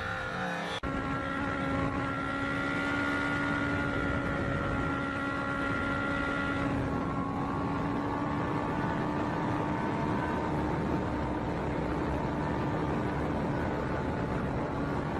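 Motorcycle engine running at a steady speed while riding, a constant drone over wind and road noise; it comes in abruptly about a second in, and its higher tones shift slightly about halfway through.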